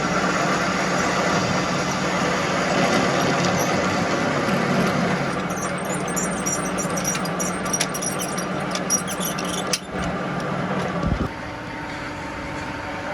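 Machinery running with a steady hum, joined by a stretch of rapid clicking and high ticking in the middle; the noise drops to a lower level about eleven seconds in.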